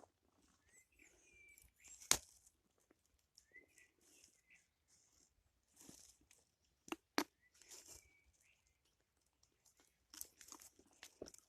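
Footsteps crunching on forest ground, with two sharp snaps, one about 2 seconds in and one about 7 seconds in, and a few faint bird chirps.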